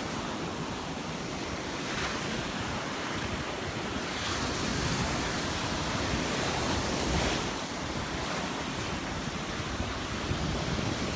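Gulf of Mexico surf washing onto the beach in slow swells, with wind buffeting the microphone.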